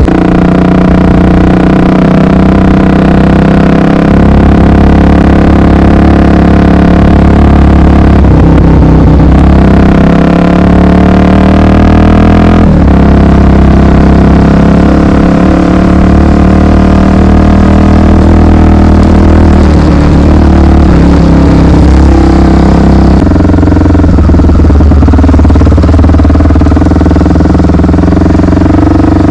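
Honda XR 250 Tornado's single-cylinder four-stroke engine running under way, loud and steady, its note shifting a few times.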